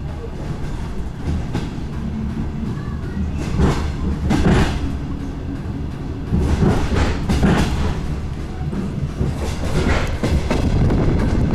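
DR1A diesel multiple unit running along the line: a steady low rumble, with the wheels knocking over rail joints in short groups of clicks.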